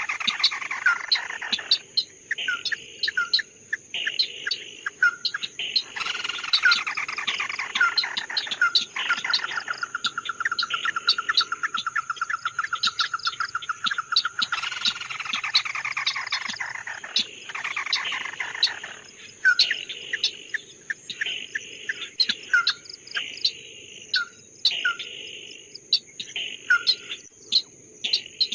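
A songbird, the 'chim mắt đỏ' (red-eyed bird), singing repeated downward-sliding whistled phrases mixed with short sharp chirps, with a long, fast trill about ten seconds in. A steady high insect drone runs underneath.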